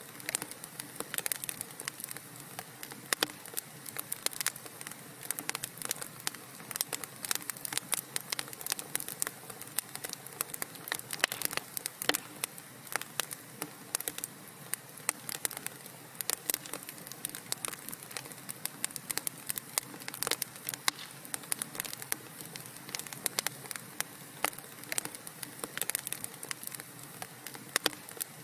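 Wood fire crackling in a fireplace: dense, irregular sharp pops and snaps over a soft steady hiss of burning.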